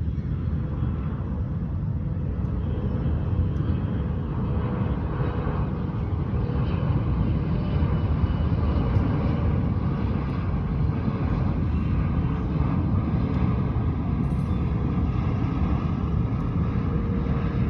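A car driving at a steady pace, its engine and road noise running evenly with no change.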